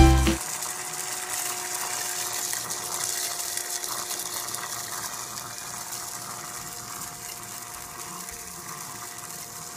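Small electric motor and fan of a build-it-yourself toy vacuum cleaner/blower running steadily: a rushing of air with a steady whine.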